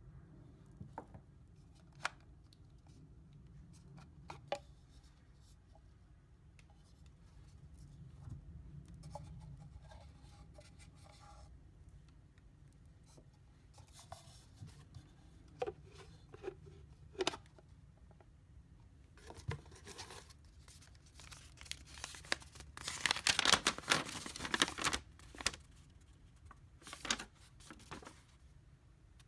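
Packaging being handled and torn open, with scattered clicks and knocks and a loud stretch of tearing and crinkling a little over twenty seconds in.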